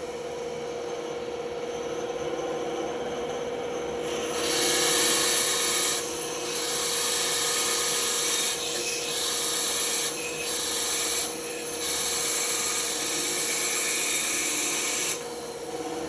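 Band saw running with a steady hum while its blade cuts a curve in a series of short relief passes: about five louder hissing cuts of one to three seconds each, starting about four seconds in, with the saw just running between them.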